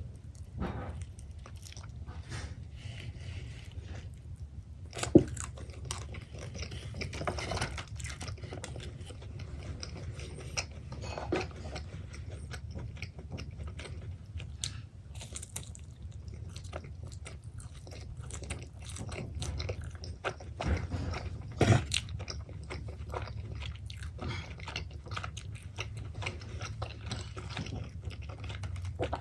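Close-miked eating of a Pizza Hut personal pan pepperoni pizza: continual chewing with small wet mouth clicks. Two sharper, louder bites come about five seconds in and again about three-quarters of the way through.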